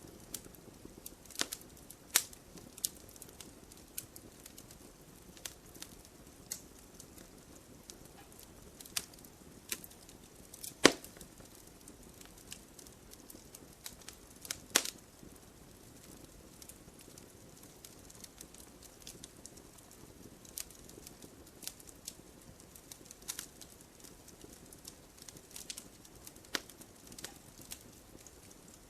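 Wood fire burning in a brazier, crackling with scattered sharp pops over a soft low hiss; the loudest pops come about eleven and fifteen seconds in.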